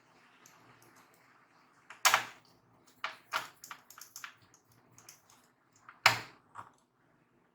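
Sharp clicks and knocks from laptop parts and tools being handled during reassembly. There are two louder knocks, about two seconds in and about six seconds in, with a run of lighter clicks between them.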